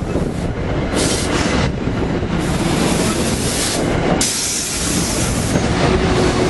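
A commuter train passing close by, its wheels and cars making a steady rumble. Three spells of loud hissing come over it, about a second in, from two and a half to four seconds, and again until about five and a half seconds.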